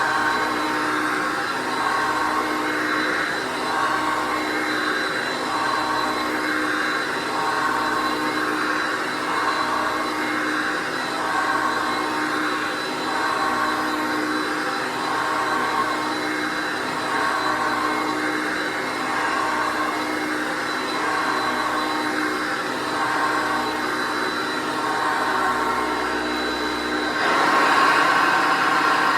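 Hoover Concept One vacuum cleaner from the 1980s running steadily with a held motor tone that wavers about every second or so. Near the end the tone changes and the sound gets louder.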